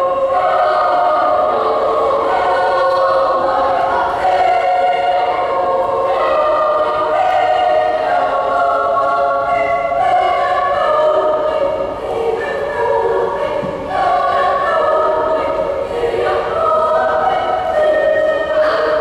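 A choir singing in full voice, holding sustained chords that move from one to the next every second or so.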